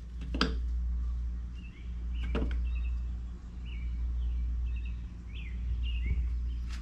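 Electric mower-blade sharpener running with a steady low hum while a mower blade is passed across the grinding wheel, the grinding swelling and fading about every second and a half. Birds chirp faintly in the background.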